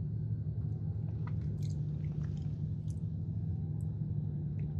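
A person chewing a mouthful of skillet cookie close to the microphone, with small wet mouth clicks over a steady low hum.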